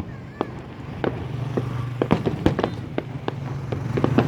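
Fireworks going off, single sharp bangs spaced irregularly about half a second to a second apart, over a steady low hum.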